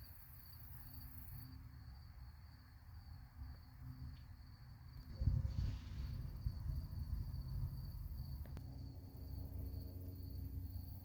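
A steady high insect trill over a low rumble, with a louder rustling burst about five seconds in.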